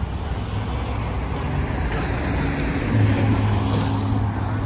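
City street traffic noise. About three seconds in, a nearby vehicle engine's steady low hum comes in.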